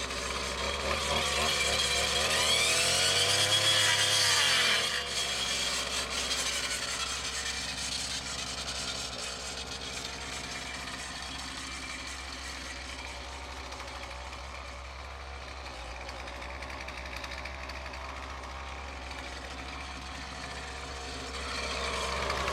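Weed eater (string trimmer) fitted with a brush-cutting attachment, its small engine revving up and running hard for a few seconds, then dropping about five seconds in and running on at a lower, steady level while cutting briars, louder again near the end.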